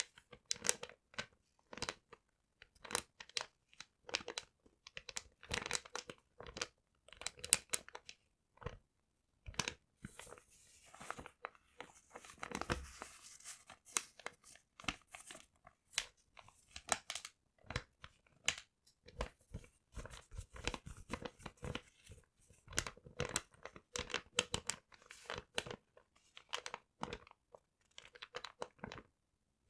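Paper being crumpled and torn: a dense run of short crackles and rips, with a softer, longer rustle about ten to thirteen seconds in.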